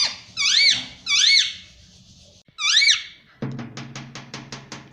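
Indian ringneck parrot giving three squeaky calls, each a short note that rises and falls in pitch. A fast, even run of clicks, about seven a second, then starts over a low steady hum.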